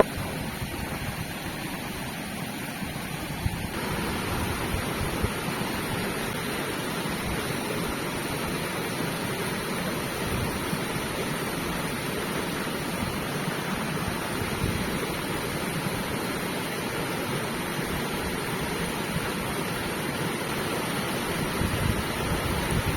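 Steady rushing of a flowing river, a little louder from about four seconds in.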